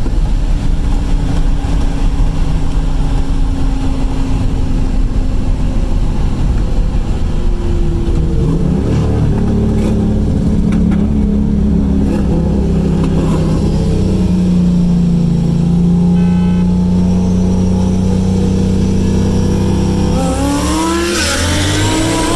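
Turbocharged LS V8 in a Camaro IROC-Z running steadily, then revving up under hard acceleration, its pitch climbing in rising sweeps near the end.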